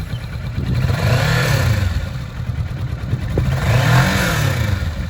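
Kawasaki Vulcan S 650cc twin-cylinder engine running and being revved twice, the pitch rising and falling back each time.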